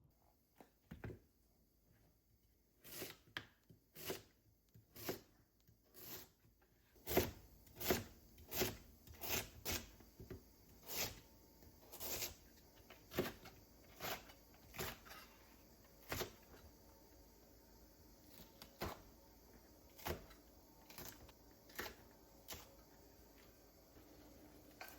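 A series of sharp knocks and clicks at uneven spacing, roughly one a second and sometimes two close together, in a small room.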